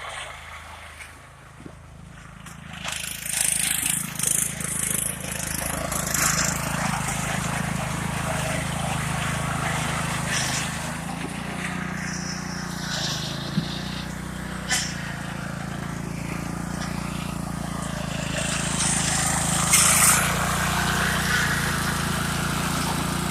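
Lawn tractor's small petrol engine running steadily, louder from about three seconds in, with short bursts of hiss over it.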